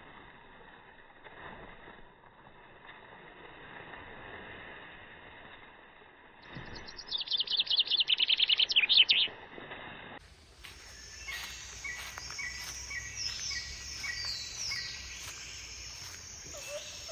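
Birds calling and singing: a loud, rapid chattering trill lasting about two and a half seconds midway, then several birds singing short whistled notes, some falling in pitch.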